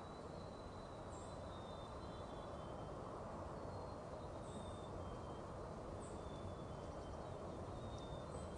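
Faint wild songbirds calling over a steady low background noise: thin whistled notes and four short high chirps spread through the stretch.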